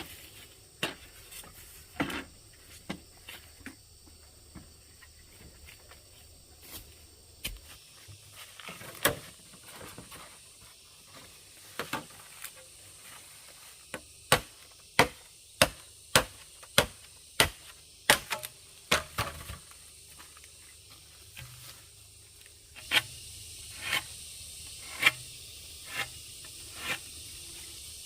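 A series of sharp knocks, like chopping strikes, irregularly spaced about half a second to a second apart and thickest in the middle. Near the end a steady background hiss rises under them.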